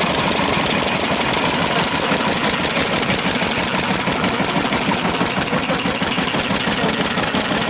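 Vintage Japanese stationary engines (hatsudoki) running together, a steady, loud mix of repeating engine beats.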